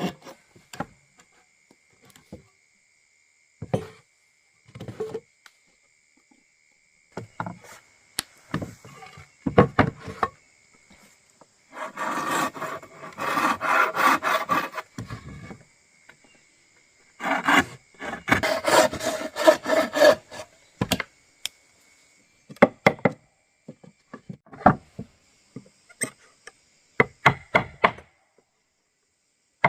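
Hand woodworking: scattered taps and knocks on wood, with two spells of rasping hand-tool strokes on wood, a few seconds each, about halfway through.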